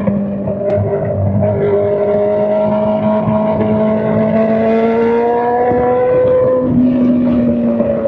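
Honda CBR600's straight-piped inline-four engine running under way, its pitch climbing slowly for several seconds, then jumping near the end.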